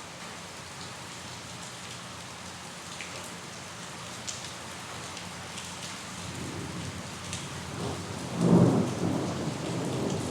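Steady rain falling, with scattered sharp drops. In the second half a thunder rumble builds, swells to a loud peak, and keeps rolling on.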